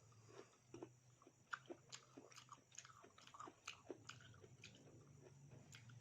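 A person chewing and biting food close to the microphone: a quiet, irregular run of short mouth clicks, several a second.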